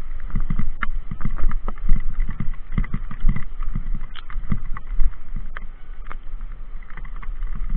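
Mountain bike ridden over rough ground, with irregular knocks and rattles from the bike and a constant low rumble of wind on the microphone.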